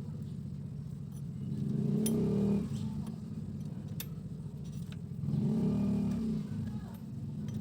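Yamaha Mio Soul i 125 scooter's single-cylinder four-stroke engine idling, revved briefly twice, about two seconds in and again near the six-second mark.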